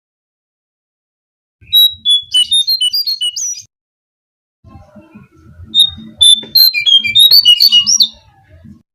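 Recorded song of a cingcoang coklat (jongkangan) used as a bird-trapping lure: two quick phrases of clear, jumping whistled notes, the first about 2 seconds in and the second about 6 seconds in, separated by silence. A low rumble runs under the second phrase.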